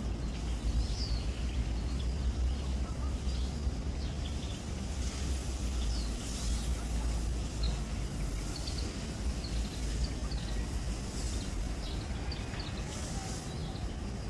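Birds chirping with many short, high calls scattered throughout, over a steady low rumble and occasional patches of high hiss.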